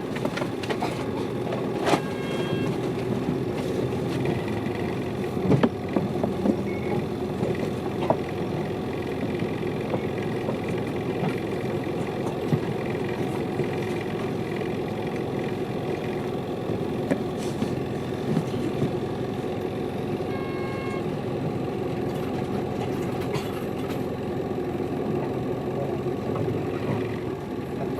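Hino Liesse small bus's diesel engine running steadily under way, heard from inside the passenger cabin, with scattered rattles and clicks. A short electronic tone sounds about twenty seconds in.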